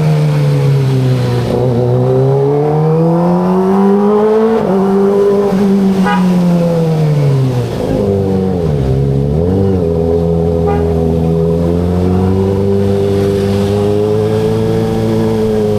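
Kawasaki ZX25RR's 250 cc inline-four engine and exhaust under way, its pitch rising and falling with the throttle. It climbs over the first four seconds, drops back to a low note around eight seconds in, then holds fairly steady.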